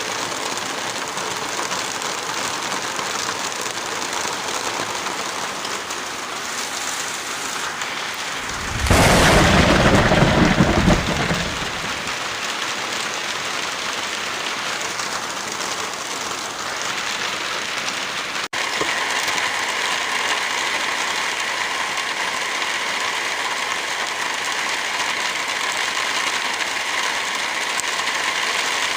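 Steady heavy rainfall, with a loud burst of thunder lasting about three seconds around nine seconds in. About eighteen seconds in the rain sound breaks off for an instant and carries on slightly louder, with a changed texture.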